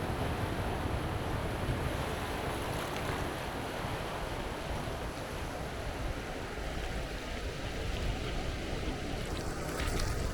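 Wind buffeting the microphone over waves washing onto the beach: a steady rushing noise with a heavy low rumble.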